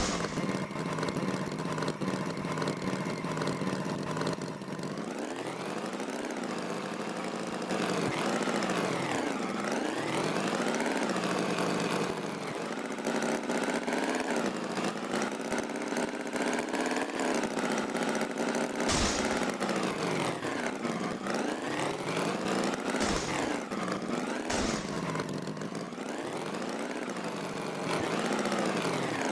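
Engine running and revving up and down over and over, its pitch rising and falling in waves, with a few short sharp knocks in the second half.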